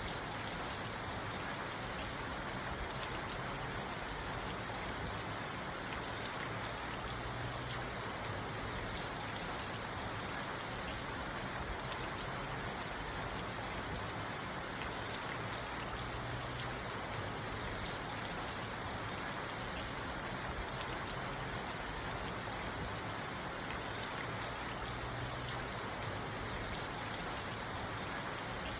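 Steady rain falling on a parked car, heard from inside the car: an even, unbroken patter with no thunder.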